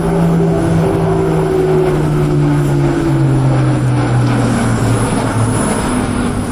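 Airbus A400M's four turboprop engines droning as it flies past, the pitch falling steadily as it goes by.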